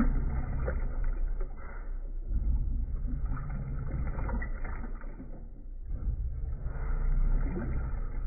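1996 Brastemp Clean 5 kg washing machine running: a low rumble in stretches of about three to four seconds, dropping briefly about two seconds in and again near six seconds, in a start-stop pattern like a wash cycle's agitation.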